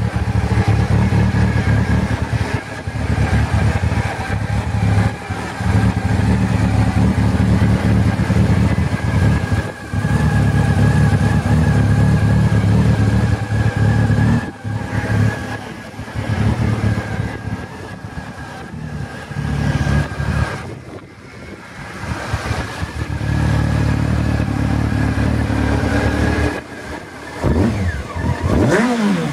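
Honda CBR600F's inline-four engine idling steadily, with a few quick throttle blips near the end that send the pitch up and down.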